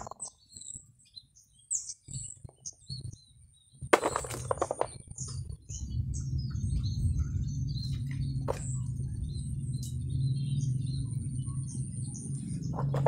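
Small birds chirping repeatedly in the background, short high calls scattered throughout. A brief louder rustle and knock comes about four seconds in, and a low steady hum sets in about six seconds in.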